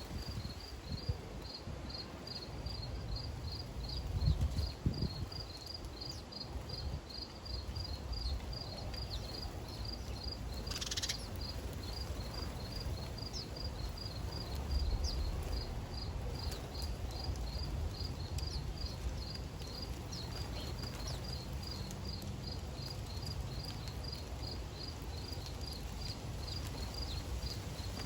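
An insect chirping steadily in a regular pulse, about three short high chirps a second, over a low outdoor rumble. A brief whoosh comes about eleven seconds in.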